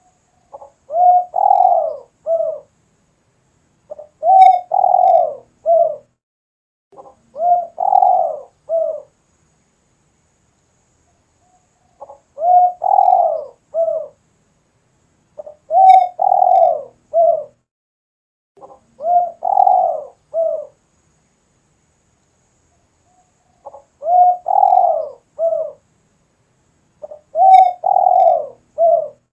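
Spotted dove (tekukur) cooing: a phrase of a short lead-in note, a longer rolling coo and a short closing note, repeated about eight times with a brief pause between phrases.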